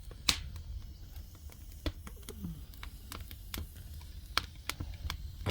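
Firewood crackling in a traditional Korean agungi firebox: irregular sharp pops and snaps, one louder just after the start.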